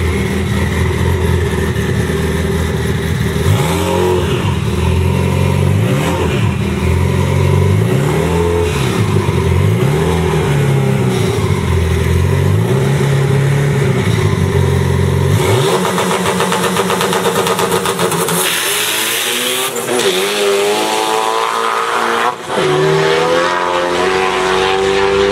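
Turbocharged 2.4-litre four-cylinder of a Dodge SRT-4 drag car, first running low with repeated throttle blips that swing the pitch up and down. About 15 s in it goes to full throttle on launch, the pitch climbing in rising sweeps through the gears with a shift breaking the climb near the end.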